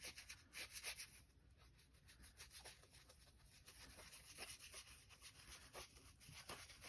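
Very faint, irregular brushing and dabbing of a paintbrush on watercolour paper, laying in white paint.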